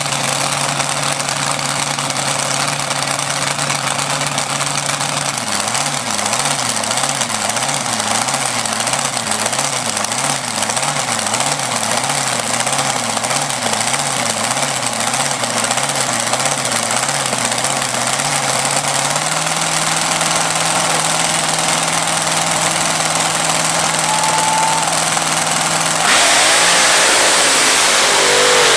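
Engine idling with a loping, regularly wavering beat that later settles into a steady note; about a second before the end the sound grows suddenly louder.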